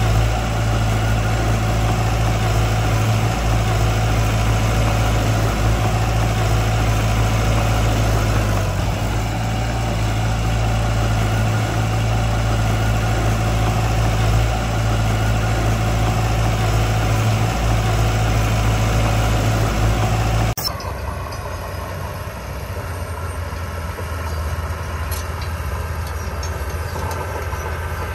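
Heavy construction machine's engine running steadily with a deep hum. About twenty seconds in, the sound cuts abruptly to a different, quieter engine running.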